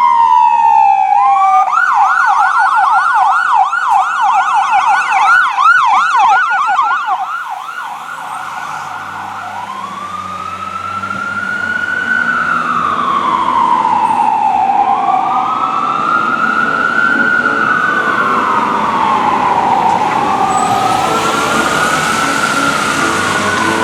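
Fire engine siren on a responding call: a falling wail switches to a fast yelp for several seconds, then goes back to slow rising-and-falling wails, with the loudness dipping midway as the truck passes.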